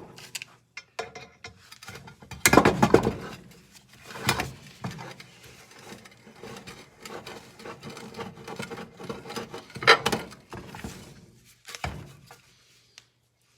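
Irregular clattering, clinking and knocking of hand tools against metal and plastic parts while a miter saw is being taken apart, with louder knocks about two and a half seconds in and again around ten seconds.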